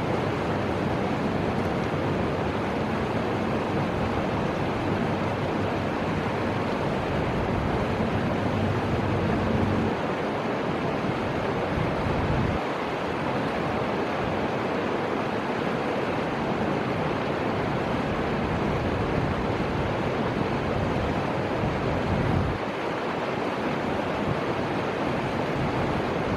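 Steady rushing of the Fuji River's flowing water, with uneven wind rumble on the microphone.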